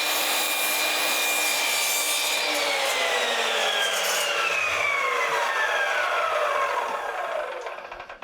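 Electric miter saw cutting a 15-degree angle through a cedar board, its motor whining at a steady pitch over the cut. About three seconds in, the whine starts falling in pitch as the blade coasts down, fading out just before the end.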